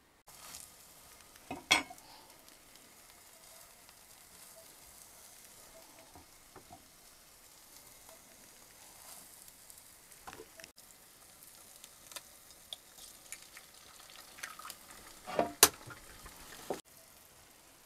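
Egg and simit frying in a pan, a steady sizzle. Two sharp clatters, most likely a utensil against the pan, come about two seconds in and near the end; the one near the end is the louder.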